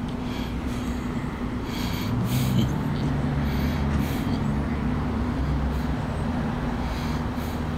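Low, steady hum of an idling car engine, growing a little louder between about two and six seconds in.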